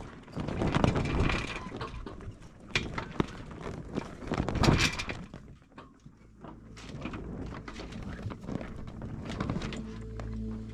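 Wind and sea noise on an open sailboat, swelling twice, with scattered sharp knocks and clatter of gear aboard. Background music comes in near the end.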